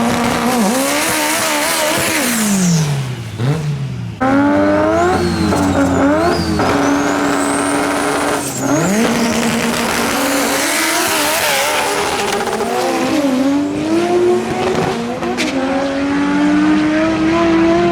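Drag race car engine revving hard again and again, its pitch rising and falling, with a high screech over it. The sound jumps sharply in loudness about four seconds in.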